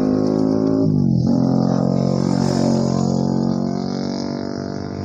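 A motorcycle engine idling with a steady low drone; its pitch dips and comes back up about a second in.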